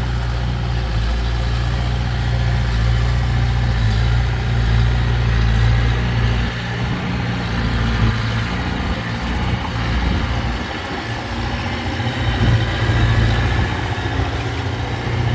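Heavy diesel earthmoving machine's engine running steadily with a deep hum. About six seconds in, the lowest rumble drops away and the engine note wavers for a few seconds.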